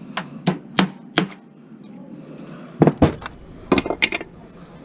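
Pieces of scrap metal clanking as they are tossed together: four sharp clanks in the first second or so, then another cluster of clanks around three to four seconds in.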